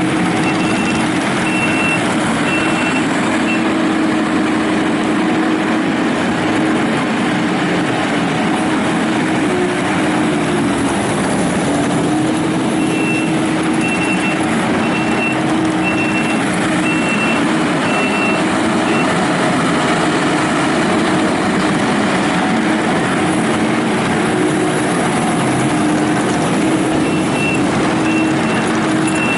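Kubota SVL95-2S rubber-track skid steer running steadily on its diesel engine. Its backup alarm beeps in three spells, near the start, in the middle and near the end, as the machine reverses.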